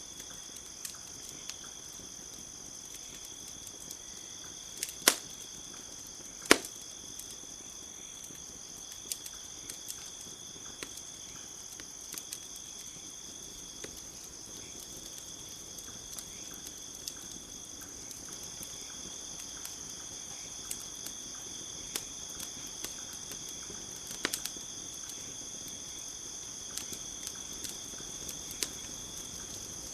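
A wood campfire crackling with scattered sharp pops, two of them loud about five and six and a half seconds in, over a steady high chirring of crickets.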